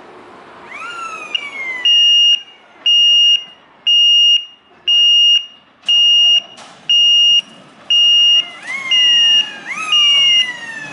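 Electronic warning alarm beeping a steady high tone about once a second, starting about two seconds in. A few separate falling, whistle-like calls come near the start and again near the end.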